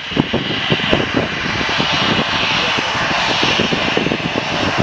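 Jet engines of an Airbus A319 airliner running at taxi power: a steady, loud hiss, strongest in its upper range.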